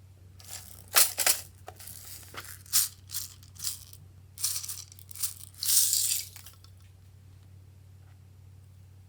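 Small loose add-ins rattling as they are shaken out of their container for mixing into slime: a string of short rattling bursts lasting about six seconds, then it stops.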